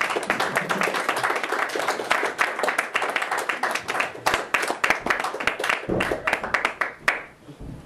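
Audience applauding, a dense patter of many hands clapping that stops fairly abruptly about seven seconds in.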